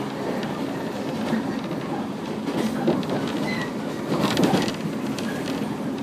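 Inside the cabin of a JR 115 series electric train running along the line: a steady rumble of wheels on rail, with a few sharp clacks about three seconds in and again around four and a half seconds.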